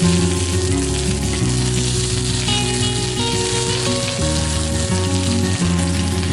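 Meat frying with a steady sizzle. Instrumental background music plays underneath, its notes changing step by step.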